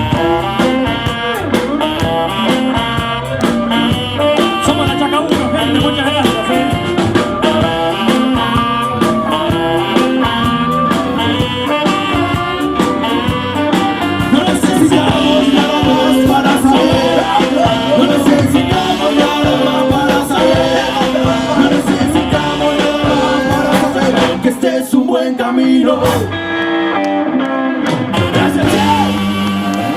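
A blues band playing with electric guitar, drums and singing, with a regular beat. The bass drops away for a few seconds near the end, then comes back.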